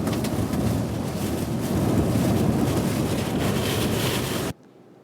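Strong severe-storm wind buffeting the microphone: a loud, dense rush of wind noise that cuts off suddenly about four and a half seconds in.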